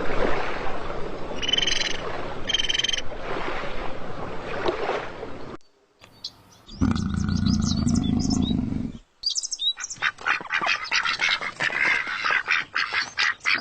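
A run of animal calls in separate short clips. First come two brief high calls over a noisy background. After a short gap there is a low, steady call lasting about two seconds, and then a dense, rapid chatter of bird chirps.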